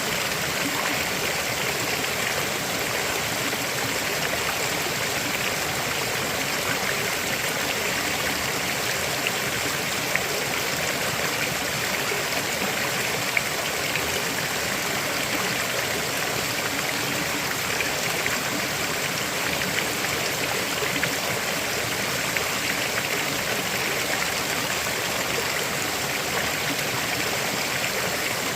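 A river flowing over rocks, a steady rush of water with small splashes and gurgles.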